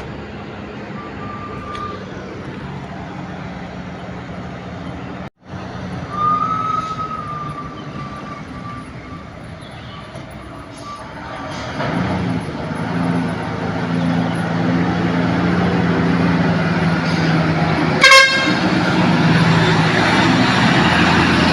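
Heavy truck's diesel engine running and growing louder as it comes close, from about halfway through. A short, loud horn blast sounds near the end, and a thinner, fainter horn-like tone is heard twice earlier.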